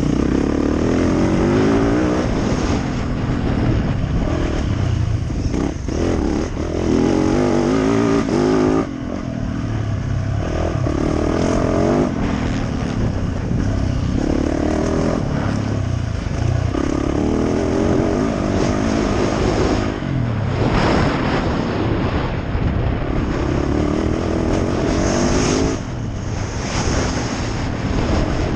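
Yamaha YZ450F motocross bike's single-cylinder four-stroke engine revving up and down through the gears, the throttle chopped sharply about nine seconds in, around twenty-one seconds and again near the end.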